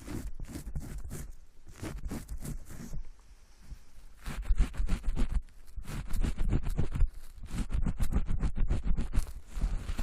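Close-miked ASMR scratching and rubbing: fast, irregular crackles and scrapes with low thuds of handling on the microphone. There is a quieter lull about three seconds in, and the sound grows busier and louder after it.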